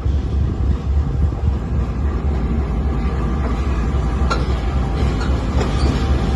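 Diesel freight locomotive running close by, a steady deep engine rumble with a few faint metallic ticks.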